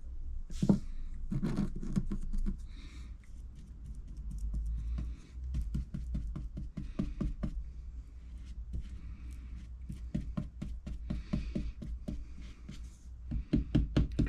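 Fibreglass resin being worked by hand, mixed and dabbed with a stick or brush: quick light taps and clicks at about four to five a second, over a steady low rumble.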